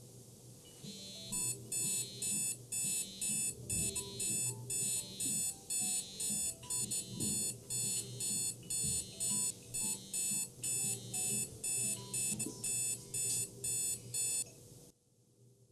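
Electronic alarm beeping in a rapid, even pattern of about two high beeps a second. It stops abruptly near the end.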